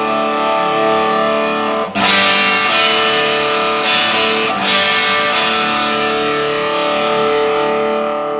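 Electric guitar played through the Morning Glory side of a dual Bluesbreaker-style overdrive pedal, with its diode clipping switched on. Overdriven chords ring out, a fresh strum comes about two seconds in, and a few more picked notes follow before the sound eases off near the end.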